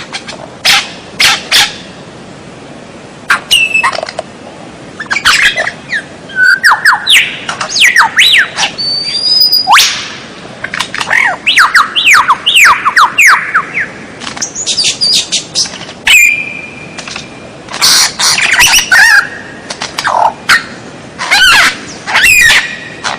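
Songbird singing a varied song of sharp chirps, squawks and whistles. The middle holds a fast run of whistles, each sliding down in pitch, and a brief held whistle follows.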